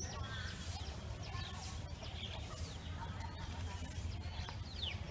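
Small birds chirping, with a few quick falling notes near the end, over a steady low background hum.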